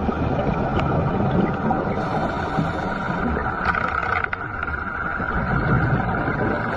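A boat's engine running steadily on the water, a continuous rumble with a constant whine in it.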